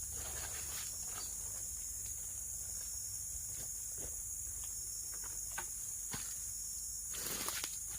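Steady high-pitched chorus of forest insects such as crickets, with scattered faint clicks and rustles, thickening into a cluster of rustling near the end.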